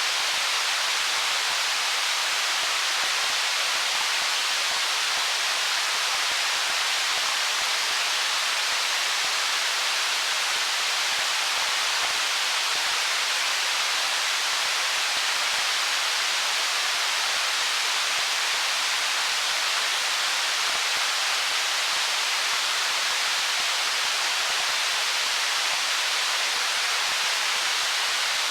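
Stream water running over stones: a steady, even rush with no breaks or changes.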